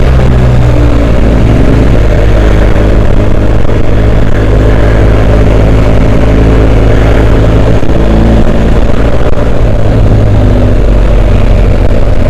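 Adventure motorcycle engine running steadily on the move, a loud continuous hum that shifts slightly in pitch a few times.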